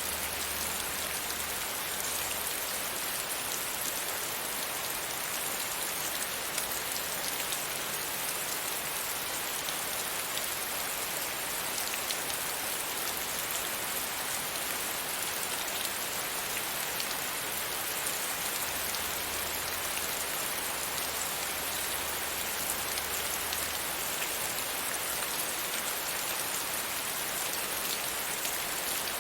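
Steady rain pattering against a window pane, with fine individual drop ticks over an even hiss. A soft low rumble comes and goes near the start and again for a few seconds past the middle.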